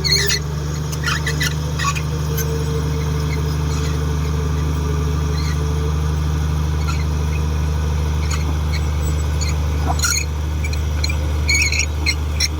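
Komatsu D58 bulldozer's diesel engine running steadily, with short high squeaks and clicks now and then, clustering near the end.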